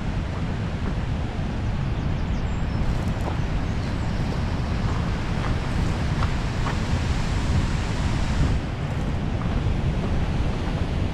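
Steady roar of High Force waterfall on the River Tees, filmed from above the drop, with wind buffeting the microphone.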